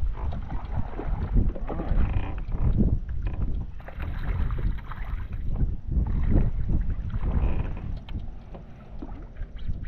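Gusty wind buffeting the microphone, with water lapping against a plastic fishing kayak's hull and a few small knocks.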